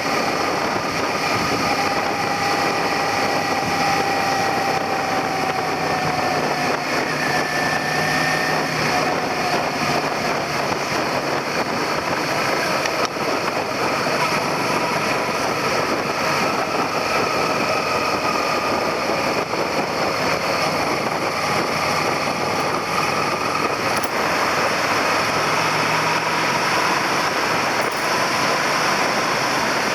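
Suzuki SV400's V-twin engine running while riding along, heard through wind rushing over the handlebar-mounted camera; the engine pitch drifts slowly up and down.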